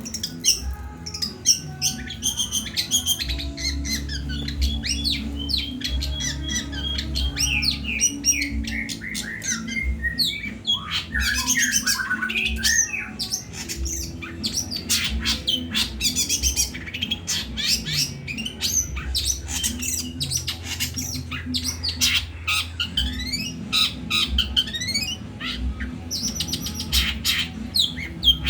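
Long-tailed shrike singing continuously: a rapid jumble of chirps, squawks, sweeping whistles and trills, its song filled with mimicked calls of bulbuls, sparrows and fighting lovebirds. A low steady hum runs underneath.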